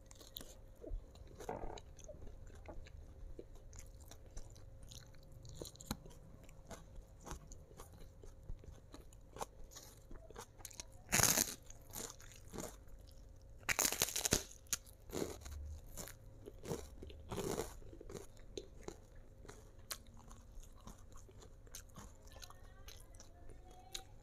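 Close-miked mouth sounds of someone chewing and crunching crispy fried food, with scattered small clicks and several loud crunching bites in the middle stretch.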